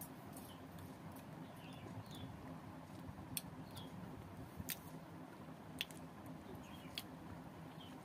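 Faint, wet chewing and mouth sounds of a person eating soft, ripe custard apple (sugar apple) pulp by hand, with a few sharp clicks in the second half.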